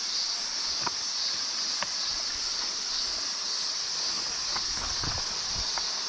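Steady high-pitched drone of an insect chorus in the bush, with a few sharp clicks and light crunches of footsteps on dry ground.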